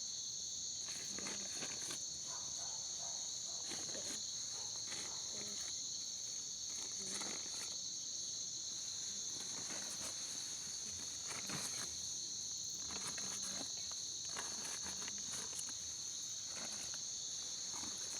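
Steady high-pitched drone of insects chirring, two unbroken shrill tones, with faint rustling steps now and then.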